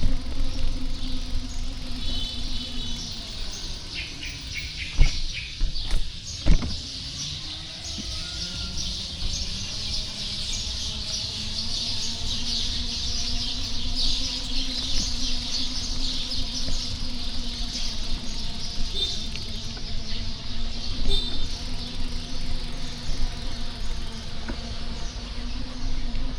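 Street traffic heard from a moving bicycle: a steady engine drone, two sharp knocks around five and six and a half seconds in, and a high hiss that swells through the middle and fades again. A few short high squeaks sound about two seconds in.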